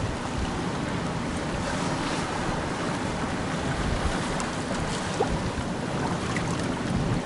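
Strong wind buffeting the microphone over the steady wash of sea surf against the rocky shore, with gusty low rumbling and no clear engine tone.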